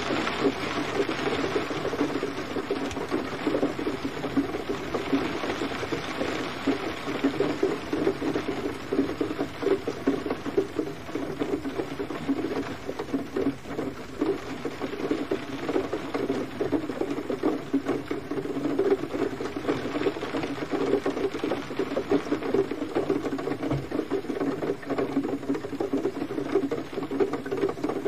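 Gentle rain falling steadily, a dense patter of many small drops.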